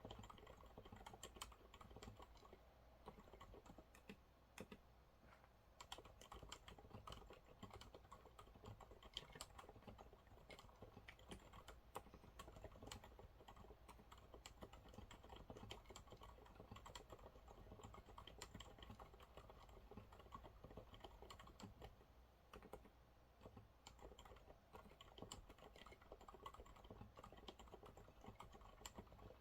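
Continuous fast typing on a Monsgeek MG108W keyboard with TTC silent brown switches: a quiet, irregular stream of soft, damped keystrokes.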